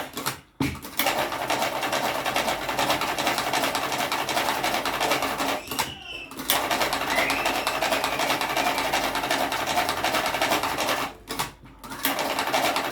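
Cigarette rolling machine with a lever arm and tobacco hopper running with a rapid, steady mechanical clatter, stopping briefly three times: about half a second in, about six seconds in and near the end.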